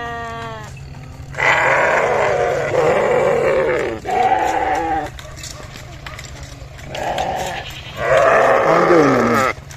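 Sheep bleating over and over: a short call at the start, then four loud, drawn-out bleats, the last one falling in pitch at its end.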